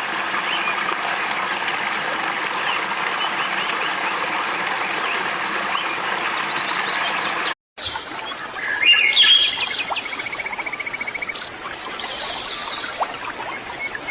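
Birds singing: a dense chorus of many chirping birds, then, after a sudden break about seven and a half seconds in, a few separate birds calling, one with a fast trill of repeated notes.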